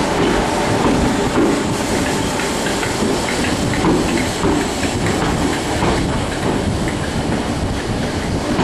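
Merseyrail electric train running along the track: a steady rumble with the clickety-clack of its wheels.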